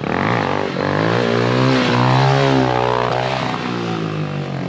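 Dirt bike engine revving: its pitch climbs over the first two seconds or so, then drops back as the throttle comes off.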